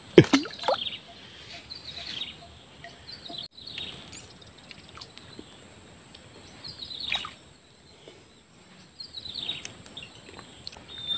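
Wild birds calling: short calls that sweep downward in pitch, repeated every few seconds, over a steady high-pitched whine.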